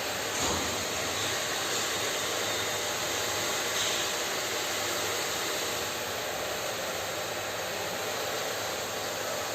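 Steady hiss-like background noise, even throughout, with a faint knock about half a second in and another near four seconds.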